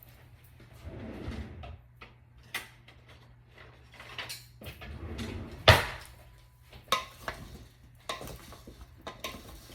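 Cut bell peppers, zucchini and onion being tossed by hand with olive oil and salt in a bowl: soft rustling of the pieces with scattered clinks and knocks against the bowl, the sharpest knock just past the middle.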